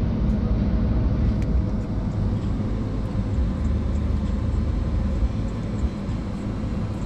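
Steady low rumble inside a parked vehicle's cab, from the engine idling.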